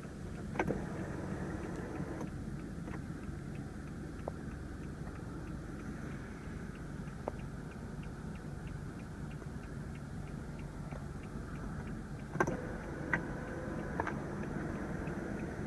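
Steady low hum inside a BMW 328i's cabin, with a few light clicks scattered through it.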